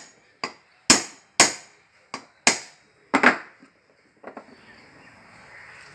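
Hammer blows driving a new bush into the base of a mixer-grinder jar: about seven sharp knocks roughly half a second apart, then a single lighter tap about four seconds in. The new bush replaces a worn one that let the jar's shaft play and leak.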